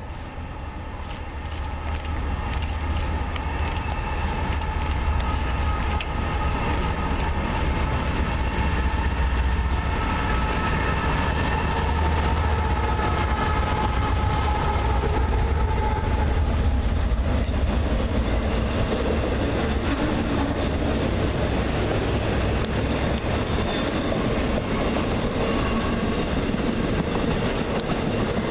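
Norfolk Southern freight train passing: the low rumble of its diesel locomotives builds over the first few seconds, then holds steady with the rolling of wheels on rail and several steady higher tones over it. The deepest rumble fades about three quarters of the way through.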